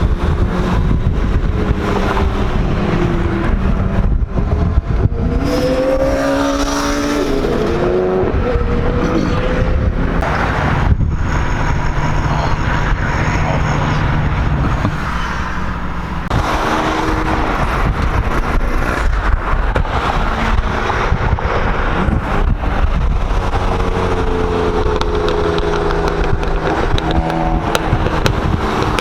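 Car engines accelerating and revving up through the gears, over a steady heavy rumble of road and wind noise from driving.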